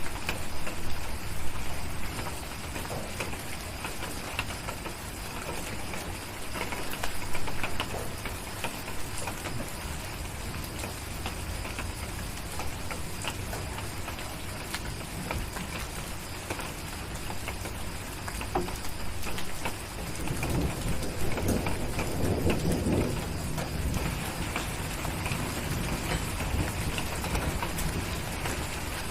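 Steady rain with scattered sharp crackles from a fireplace, and a low rumble of thunder swelling about twenty seconds in.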